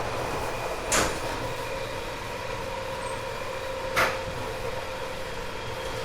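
Running sound inside a JR 189 series express electric train's motor car, whose MT54 traction motors and gearing give a steady whine over the running noise. Two sharp clicks come about three seconds apart.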